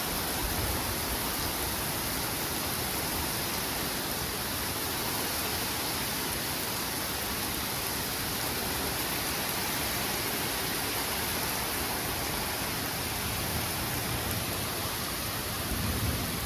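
Heavy thunderstorm rain pouring down steadily, a dense, even hiss.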